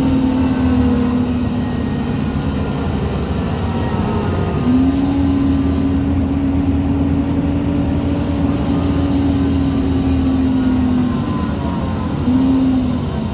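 MAN Lions City G articulated bus's differential and gearbox whining while driving, over a steady low engine and road rumble. The whine drops away early, comes back about five seconds in and holds steady, fades, then returns briefly near the end.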